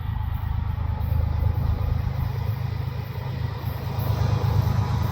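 Steady low rumble of approaching diesel locomotives, the lead units of a CN train: a GE ES44DC and ES44AC.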